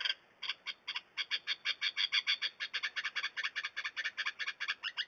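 Small bird giving a fast chattering call, a rapid train of short high notes at about nine a second, which the watchers take for the bird telling them to go away.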